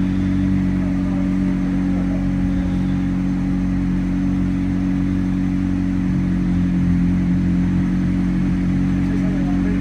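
McLaren twin-turbo V8 idling steadily at an even, unchanging pitch.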